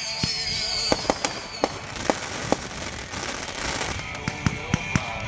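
Fireworks going off: a string of sharp bangs and pops, about eight in all, with crackling between them, over background music.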